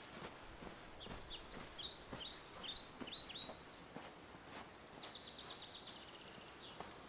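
Songbird singing in woodland: a run of short falling chirps, then a fast trill from about four and a half seconds until near the end. Faint footsteps in snow sound underneath.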